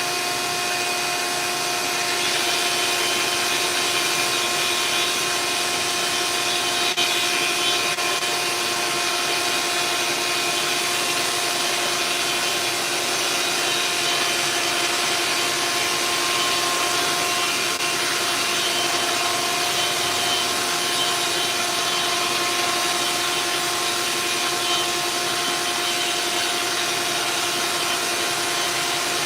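Power sander running steadily as it sands cured epoxy fairing compound on a steel hull, a constant motor whine over a rough abrasive hiss.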